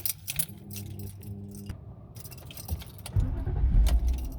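Keys jangling and clicking at the ignition, then a BMW E39's engine starts about three seconds in and runs with a steady low rumble.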